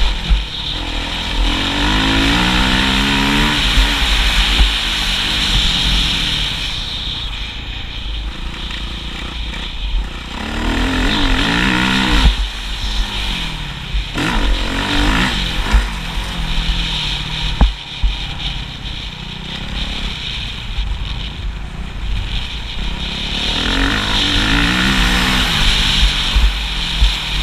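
Motocross bike engine revving up and down over and over, its pitch rising and falling with throttle and gear changes, over a constant low rumble.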